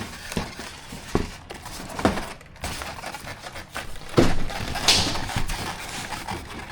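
Handling noise from assembling a foam RC plane: parts and packaging rustling, with a few sharp knocks as pieces are set down, the loudest a little after four seconds in.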